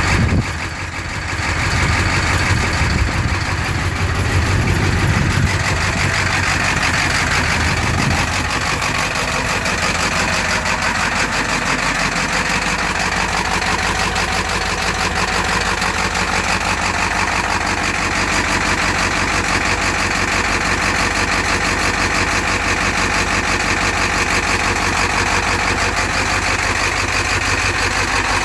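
1991 Ford F-250's 7.3 L IDI diesel V8 idling shortly after a cold start at 10 °F without its block heater plugged in. A deeper, heavier rumble in the first eight seconds or so settles into a steady idle.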